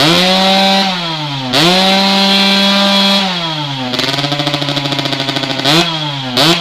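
Yamaha RX-King's ported two-stroke single-cylinder engine, with an under-belly expansion-chamber exhaust, being revved. The pitch goes up and is held twice, falls back to a lower, fluttering run, then rises in two quick blips near the end.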